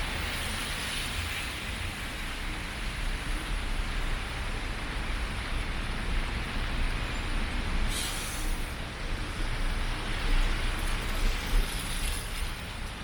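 Steady wet street noise of rain and vehicle traffic, with a low rumble throughout and a brief hiss about eight seconds in.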